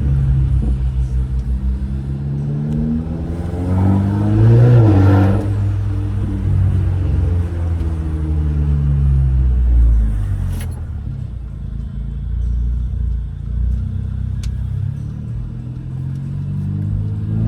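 Straight-piped 2015 Mercedes CLA 250 with an aftermarket intake, its turbocharged four-cylinder engine pulling while driving. The exhaust note climbs in pitch and drops back several times, loudest about four to five seconds in. Two brief sharp clicks come later on.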